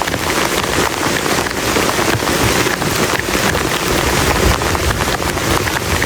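Heavy rain falling on a plastic tarp: a dense, steady patter of countless individual drop hits.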